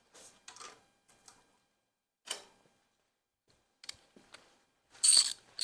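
Irregular clicks and clinks of metal hand tools and engine parts being handled, with two sharper metallic knocks about five seconds in.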